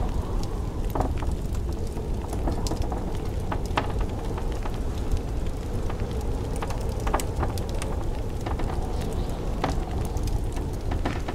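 Wood fire crackling, with scattered sharp pops and snaps, over a steady low rumble of blizzard wind.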